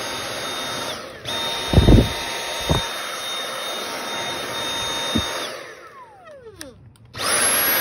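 Dyson V8 cordless stick vacuum running on its new replacement battery: a steady rush of air with a high motor whine. The sound cuts out briefly about a second in, then picks up again, with a few low knocks along the way. A little after halfway the motor stops and winds down in a falling whine, then starts again with a rising whine near the end.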